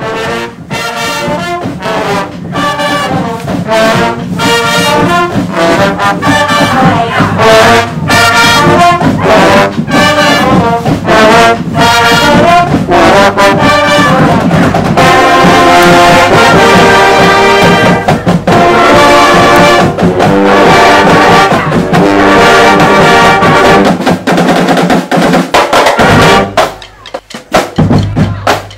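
High school marching band playing a loud brass-led tune in a steady march rhythm. The music breaks off briefly a couple of seconds before the end.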